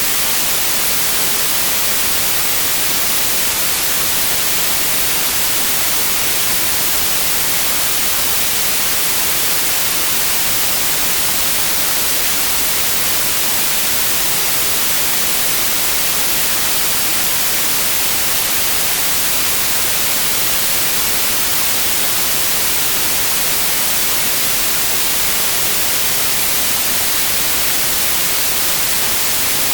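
Steady white noise, an even hiss, bright and strongest in the highs, with no change.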